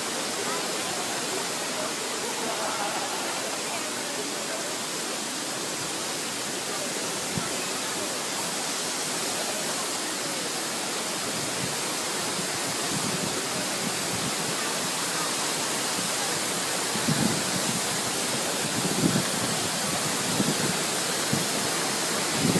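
Waterfall rushing steadily, with a few low bumps in the last few seconds.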